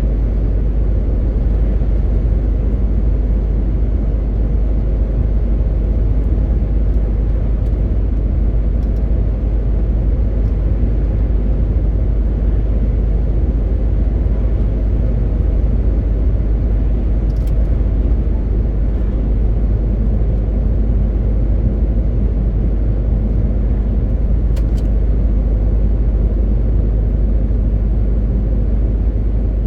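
MAN TGX 18.520 truck's diesel engine and road noise as it drives at a steady pace: a constant deep rumble that does not rise or fall. Two faint clicks come through, one about two-thirds of the way in and one near the end.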